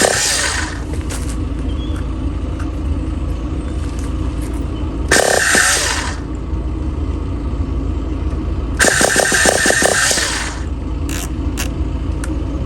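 Enya .15 CX two-stroke glow engine (2.45 cc) running, its revs rising in short bursts near the start, about five seconds in, and for a longer stretch about nine seconds in.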